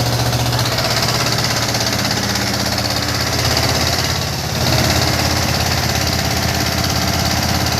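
Tractor diesel engine running steadily with a deep, evenly pulsing drone, swelling briefly about halfway through.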